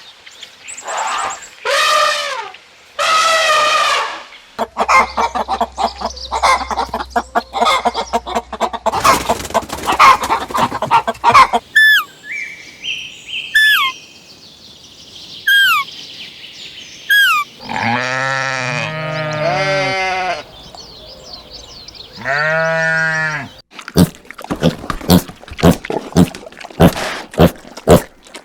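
A string of different animal calls one after another: pitched bleat-like cries at the start, a run of short high whistling calls in the middle, deep low calls about two-thirds through, and a quick run of clicks near the end.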